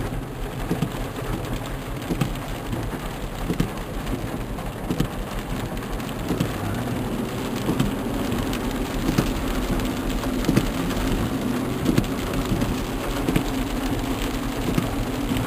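Heavy rain pouring down steadily, many drops tapping on a hard surface, over a low rumble.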